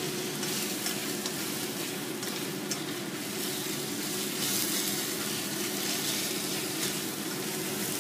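Sliced beef sizzling steadily in a hot frying pan as it is stir-fried, with a few light scrapes and clicks from a wooden spatula turning the meat.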